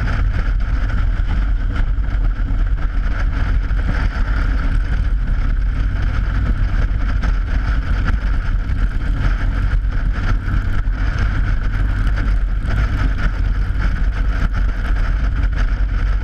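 Motorcycle riding at steady cruising speed over a steel grid bridge deck: a constant low rumble with the tyres humming on the grating, and wind buffeting the helmet-camera microphone.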